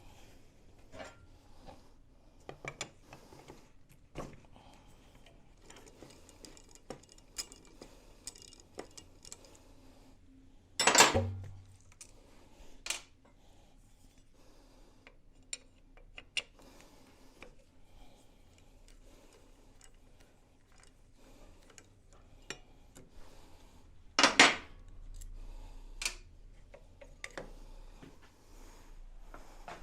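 Metal tools and small engine parts clinking and tapping while being handled on a workbench, with two louder sharp knocks about 11 seconds and 24 seconds in.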